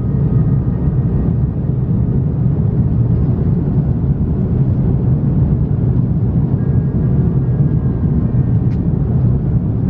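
Steady cabin noise of an Airbus A330-300 airliner in flight: a dense low rumble of its engines and airflow over the fuselage, with faint steady tones above it.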